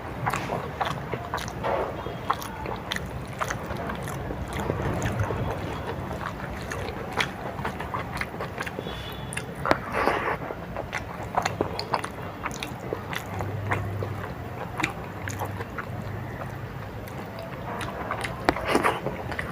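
A person eating a meal of rice, lentil dal, omelette and papad: close-up biting and chewing, with many short clicks and scrapes, over a steady low hum.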